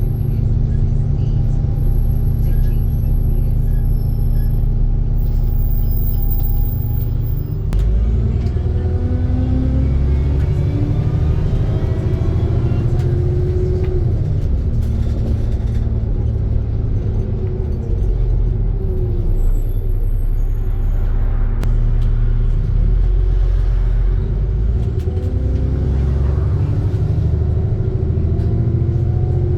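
ADL Trident II Enviro 400 double-decker bus running: a steady idle, then about eight seconds in it pulls away, its engine and drivetrain whine rising in pitch through the gears, easing off around eighteen seconds and climbing again near the end.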